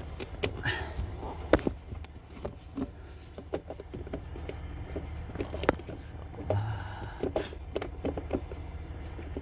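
Scattered clicks and knocks of a plastic trim cover and carpet being handled and pushed into place in a car's footwell, over a steady low hum.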